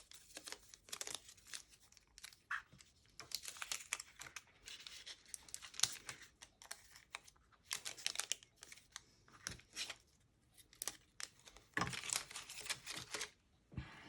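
Paper crinkling and short peeling and tearing sounds as glue dots are pulled from their backing strip and pressed onto a die-cut paper piece. The noises come in irregular short bursts, with a longer run of rustling near the end.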